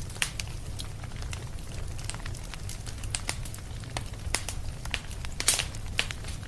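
Fireplace fire crackling: irregular snaps and pops over a steady low rumble, with a louder pop about five and a half seconds in.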